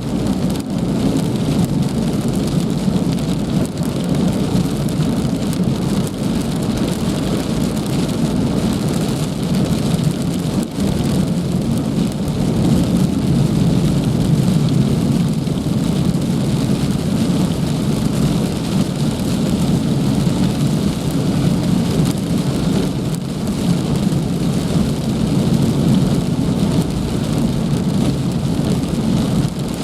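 Heavy rain falling, a steady, dense rush of noise that is strongest low down.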